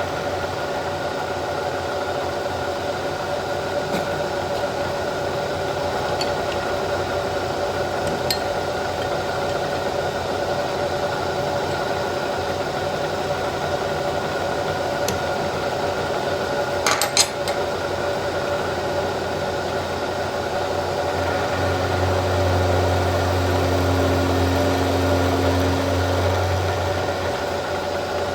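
Vertical milling machine running steadily while an end mill cuts flats on a control rod: a constant machine hum with a few light ticks and a short sharp clatter a little past the middle. A deeper hum swells in for several seconds near the end.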